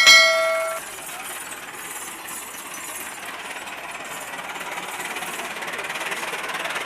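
Tractor diesel engine running with a fast, even clatter that grows slightly louder toward the end. A short bright ringing chime sounds at the very start.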